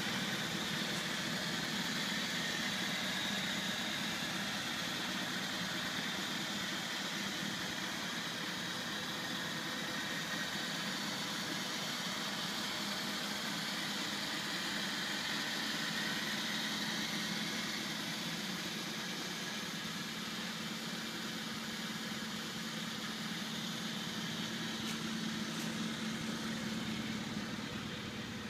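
Rover Mini Cooper's 1275 cc A-series four-cylinder engine idling steadily.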